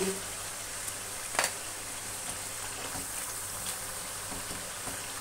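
Onion and ginger-garlic paste sizzling in hot oil in an enamel karahi while being stirred with a wooden spatula, with a single sharp knock about a second and a half in.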